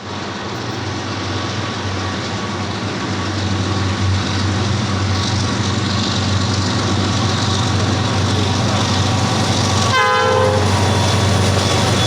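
EMD SD40-2 diesel locomotive with its 16-cylinder two-stroke engine approaching at the head of a freight train, its steady low drone growing louder. About ten seconds in there is a short blast on the horn.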